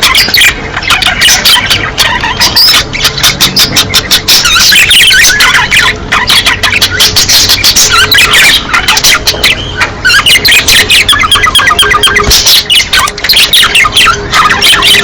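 A group of budgerigars chattering and warbling non-stop, a dense run of quick chirps, squawks and clicks: the breeding-season calls of budgerigars.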